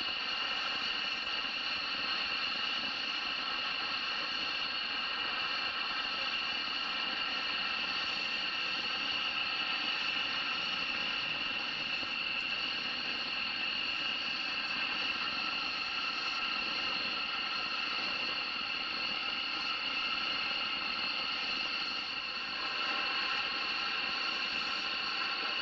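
Aircraft turbine engine running at idle: a steady, high-pitched whine of several tones that holds the same pitch throughout.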